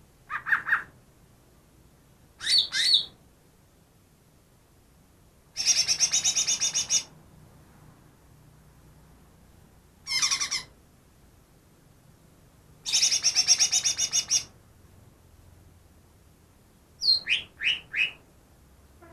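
Cucak ijo (green leafbird) singing a varied song of separate phrases: short chirps, two long rapid trills lasting about a second and a half each, and near the end three quick falling notes. It is a mimic, said to copy about ten other birds' calls.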